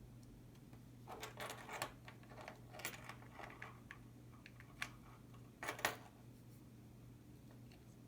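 Small clicks and scrapes of a precision screwdriver driving tiny screws into a plastic remote-fob case: a run of light clicks for about five seconds, the loudest near the end.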